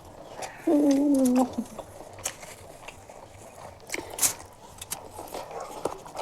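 Close-up chewing and wet mouth clicks of someone eating chicken biryani, with a short hummed "mmm" of enjoyment about a second in, the loudest sound.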